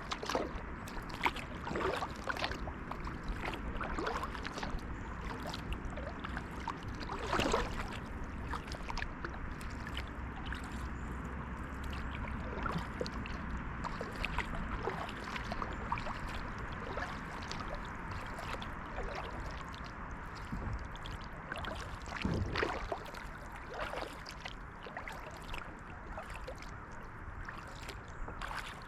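Kayak paddle strokes dipping into the water with splashes and drips, over a steady wash of moving water; two strokes stand out louder than the rest.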